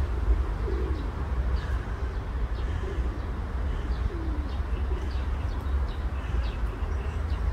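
Birds calling: a few short, low, falling calls spread through the seconds, over a steady low rumble.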